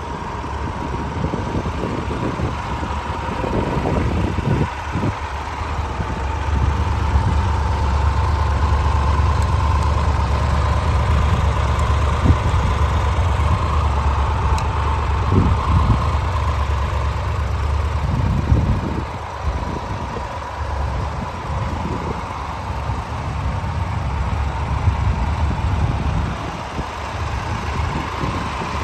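Triumph Tiger 1200 Rally Explorer's three-cylinder engine idling steadily.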